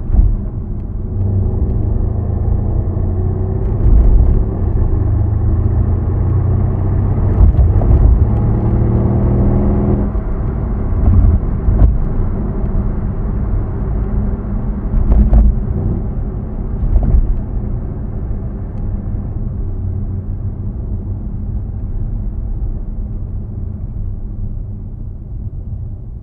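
Stock exhaust of a W205 Mercedes-AMG C63 S twin-turbo V8 while driving: a low rumble that rises in pitch under acceleration from about seven to ten seconds in, then drops at an upshift. Several short knocks are heard, and the exhaust settles into a steadier, lower drone toward the end.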